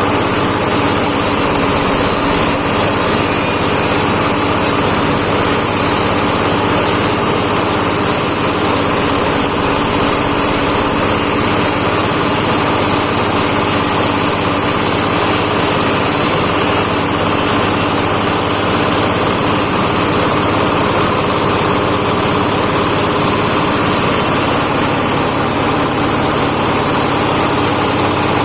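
Fish-waste grinding machine running steadily at constant speed, an even mechanical drone with no change in load.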